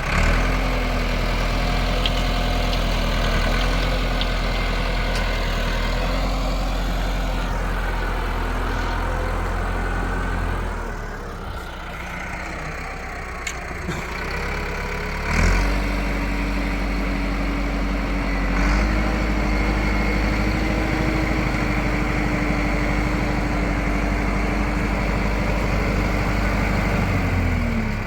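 Tractor engine running at a steady speed. It eases off for a few seconds near the middle, then picks up again at a slightly higher pitch and runs steady until it falls away near the end.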